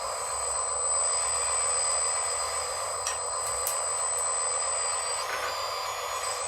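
Small electric motors and gearing of RC construction models whining steadily, with a couple of light clicks about three seconds in and a shift in the whine's pitch a little after five seconds.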